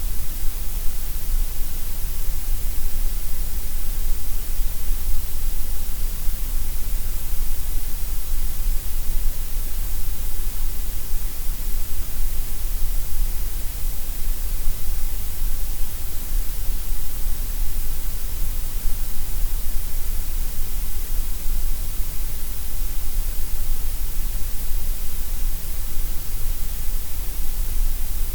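Gray noise: a steady, unchanging hiss, heaviest in the deep bass and the treble and thinner in the middle.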